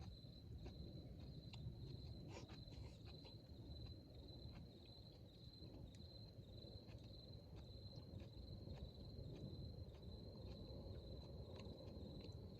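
Faint cricket song: a steady, high, finely pulsing trill, with scattered faint ticks over a low background rumble.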